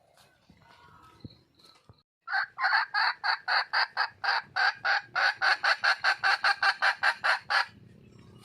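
Wild junglefowl hen cackling: a fast run of loud clucks, about five a second, starting about two seconds in and stopping abruptly some five seconds later. The hen is calling for a male.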